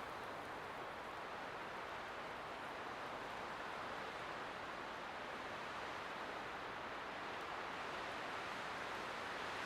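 Light winter wind blowing steadily, an even rushing hiss with no gusts or breaks, swelling slightly near the end.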